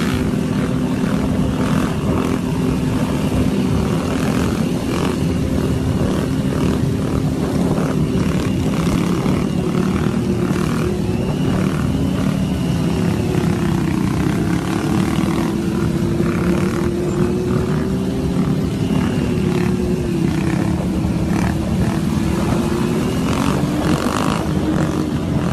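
Motorcycle engine running at a steady speed, its pitch dipping and rising slightly about halfway through.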